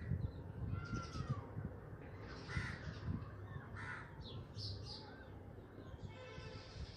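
Several short, harsh bird calls spaced through a few seconds, over a faint clatter of stirring in a frying pan of onions and ginger-garlic paste.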